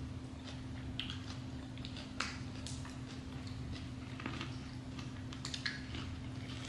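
Two people biting into and chewing lettuce wraps filled with crab, shrimp, cucumber and carrot, giving irregular crunching bites and chewing.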